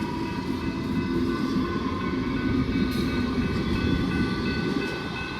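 Melbourne suburban electric train running over a level crossing with a steady rumble of wheels on rail, while the crossing's electronic bell rings as several steady high tones.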